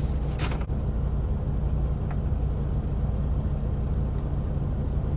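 Steady low drone of a semi truck idling, heard inside the cab, with a brief noisy sound at the very start.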